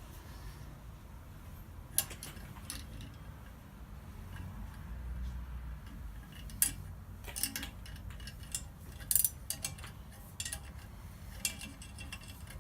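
Metal hand tools and steel parts clinking and tapping in scattered, irregular sharp knocks, more frequent in the second half.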